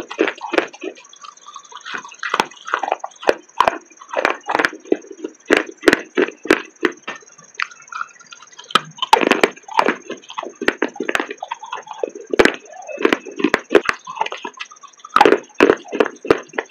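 Chunks of baked clay pot being bitten and chewed close to the microphone: repeated sharp cracks and crunches in clusters, with short pauses between bites.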